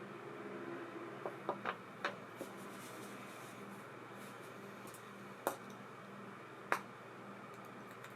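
Several small sharp clicks and taps over a faint steady hum: a cluster of four or five light clicks in the first two and a half seconds, then two louder, crisper clicks a little over a second apart later on.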